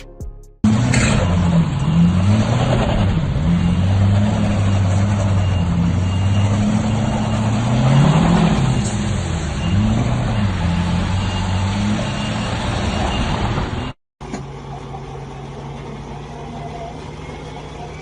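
Heavy vehicle engine running, its pitch rising and falling as the throttle is worked. Just before 14 s it cuts off abruptly, and a quieter engine idling steadily follows.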